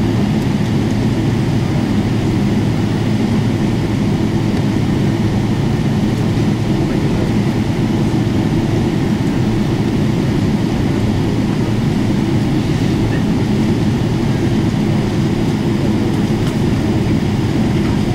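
Steady low cabin rumble and hum inside a Boeing 777-300ER taxiing after landing, from its GE90 engines at low power and the rolling airframe.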